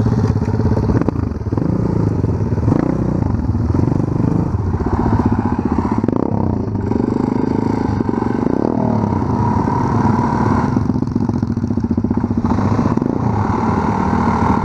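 Off-road motorcycle engine, a pit bike, running under load and revving unevenly, its pitch rising and falling, with two brief drops in revs near the end.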